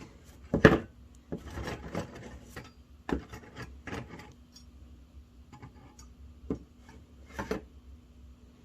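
Sand-cast silver Barrel of Monkeys figures clinking and scraping against each other as they are hooked together and picked up: scattered light knocks and rubbing, the sharpest about half a second in.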